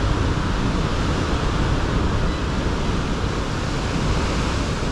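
Steady rushing of strong coastal wind buffeting the microphone, heavy with rumble.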